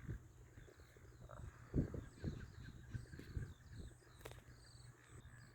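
Faint outdoor bird calls: scattered short chirps and a brief warbling call, over a low rumble, with a few soft thumps, the loudest about two seconds in.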